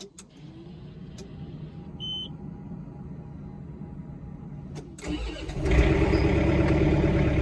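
John Deere 4066R compact tractor's three-cylinder diesel being started. A low hum and a short high dashboard beep about two seconds in, then the engine fires about five seconds in and settles into a loud, steady run.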